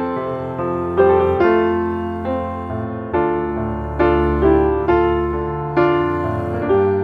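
Background music: a slow, gentle piano piece, notes and chords struck about once a second and left to ring and fade.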